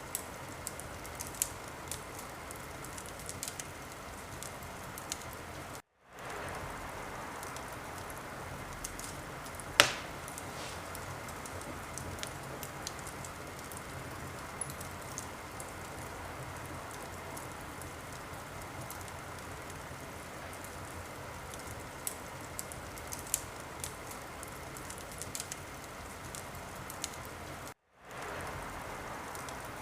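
Wood fire crackling in a fireplace: a steady hiss with scattered sharp pops and snaps, and one loud pop about ten seconds in. The sound drops out for a moment twice.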